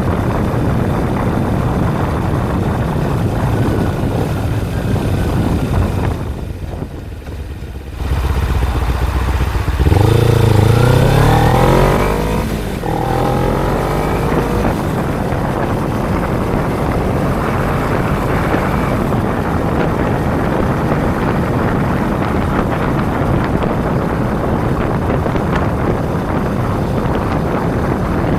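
Kawasaki Ninja 250 parallel-twin engine running under way, with heavy wind rush over the microphone. After a brief quieter lull, about ten seconds in it revs up, the pitch climbing and dropping back a few times as it shifts up, then settles back into steady cruising.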